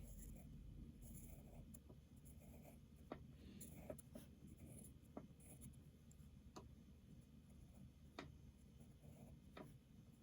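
Faint scratching of a pencil on paper as curved strokes are drawn, with a few light taps now and then as the point meets the paper.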